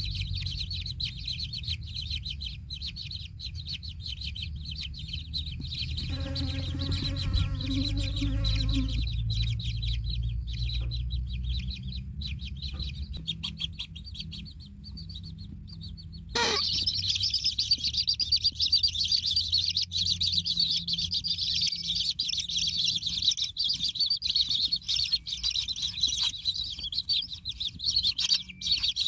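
Kingfisher chicks calling from the nest hole, a fast, continuous stream of high chirps that gets suddenly louder a little past halfway. A low rumble sits under the calls in the first half, and a brief lower-pitched call comes about a quarter of the way in.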